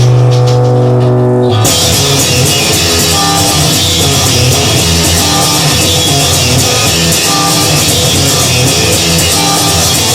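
Instrumental blues-rock with electric guitar and drum kit: a held low chord, then the full band with drums comes in about a second and a half in and plays on.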